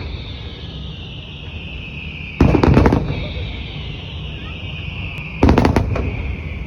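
Fireworks shells bursting in the sky: two loud bursts about three seconds apart, each a quick cluster of cracks fading over about half a second, over a steady background hiss.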